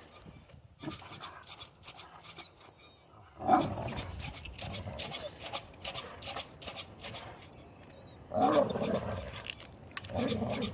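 Wolves growling and snarling at each other in a few short bursts. The loudest bursts come about three and a half seconds in and again near the end.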